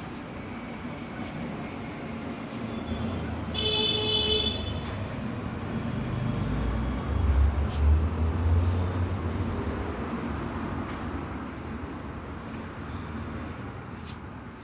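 Road traffic: a short vehicle horn toot about four seconds in, then a vehicle rumbling past, loudest about halfway through and fading afterwards.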